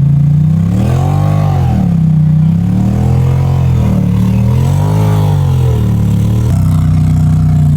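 Side-by-side UTV engine revving up and down about three times under load, then holding a steadier pitch near the end, as the machine works its way through a deep mud rut.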